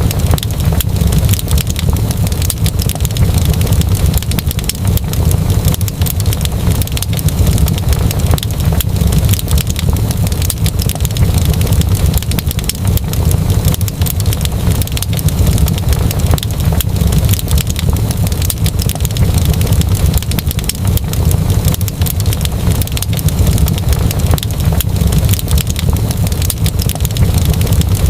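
Wood fire crackling steadily: dense small pops and snaps over a constant low rumble of the flames.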